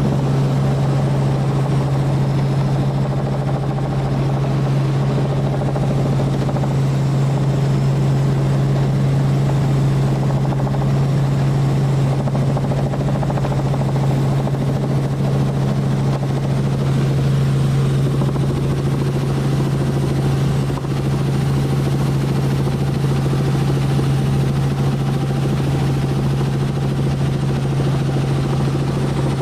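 Tour helicopter in flight: a steady, loud low drone of rotor and turbine with rushing noise above it, holding constant throughout.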